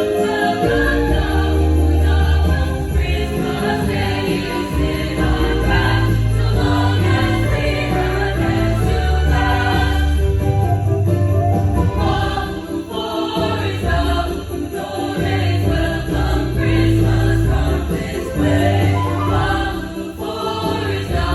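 Christmas music: a choir singing over an accompaniment with a strong bass line and jingle bells.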